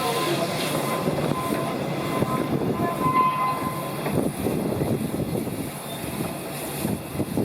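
Narrow-gauge train headed by eight coupled locomotives running, a steady rumbling rattle of locomotives and wheels on rails, with a thin high steady tone over the first three and a half seconds.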